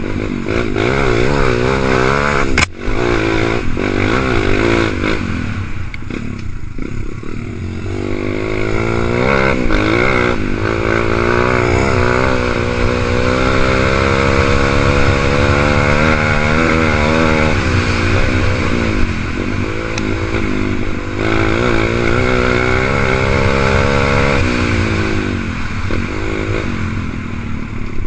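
A 125 cc dirt bike's engine running while ridden, its pitch rising and falling quickly in the first few seconds, then climbing in longer sweeps as it is revved through the gears. There is a sharp click about three seconds in.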